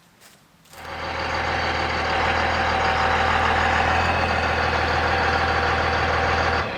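An engine running steadily at an even speed, starting about a second in and cutting off suddenly near the end.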